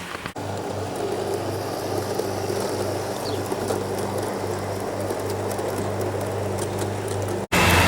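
O gauge model diesel-hydraulic locomotive running on garden railway track: a steady low motor hum that pulses gently, over a light rattle of wheels on rail. The sound cuts out briefly just after the start and again near the end.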